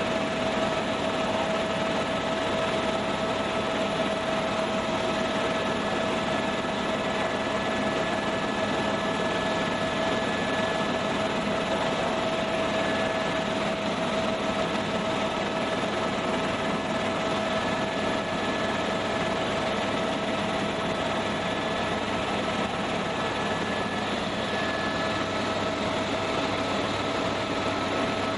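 Tour helicopter in steady flight, heard inside the cabin: a constant rushing drone with a few steady whining tones over it.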